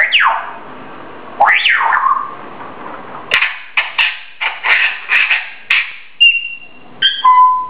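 Grey parrot calling. It gives two quick whistles that sweep up and down in pitch, then a run of about eight short, harsh screeches, then a few short whistled notes near the end.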